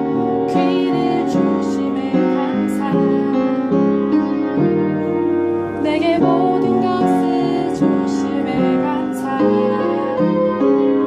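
Piano playing a gentle, slow song, with notes and chords sounding one after another.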